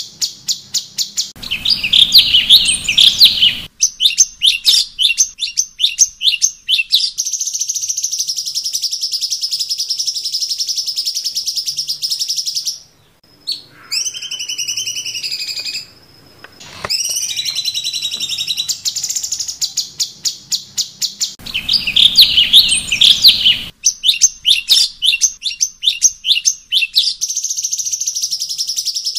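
Cucak cungkok singing a loud, varied song. It has rapid chattering note series, a long buzzing trill, and a few gliding, falling whistles after a brief pause. The same phrase sequence comes round again about two-thirds of the way through.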